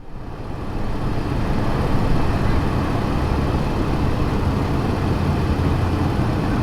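Steady low rumble of a train, fading in over the first second and then holding level.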